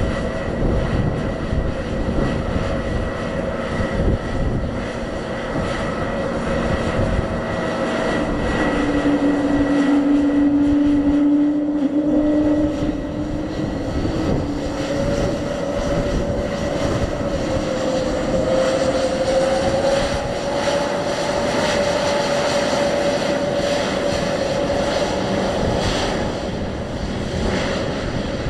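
Airbus A320neo's Pratt & Whitney PW1100G geared turbofan engines at takeoff power, a loud steady jet sound with whining tones that shift and rise in pitch partway through as the aircraft departs. Gusts of wind buffet the microphone.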